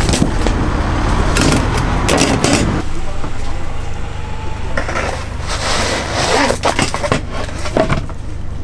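Knocks and clatter of pizzas being cut and handled on a board, dense for the first few seconds and sparser later, over a steady low hum.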